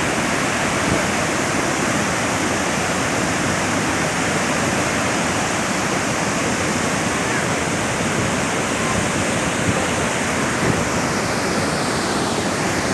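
Large waterfall in heavy monsoon flood, water thundering down in a steady, loud rush.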